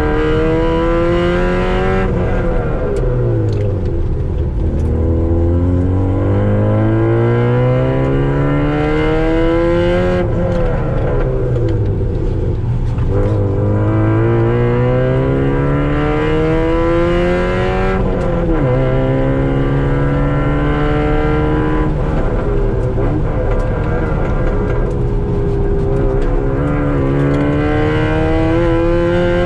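Car engine heard from inside the cabin on a track lap. It accelerates hard several times, rising steadily in pitch, then drops back sharply each time the driver lifts off or brakes for a corner.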